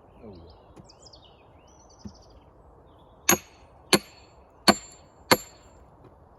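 Sledgehammer striking a steel splitting wedge four times, roughly two-thirds of a second apart. Each blow is a sharp metallic clang that rings briefly, driving the wedge into a large log block to split it.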